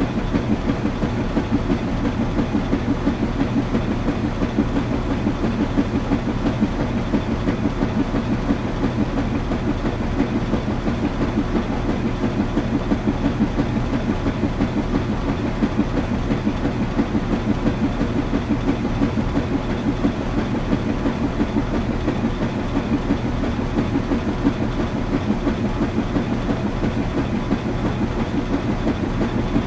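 Washing machine running: a steady low rumble with a fast, even pulse.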